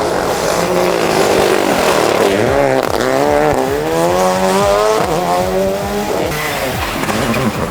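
Rally car engine under hard throttle, its pitch climbing and dropping several times as the car accelerates and changes gear.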